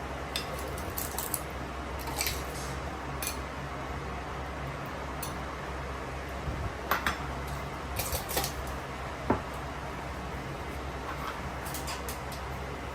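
Scattered clinks and knocks of dishes and cutlery being handled, over a steady low hum.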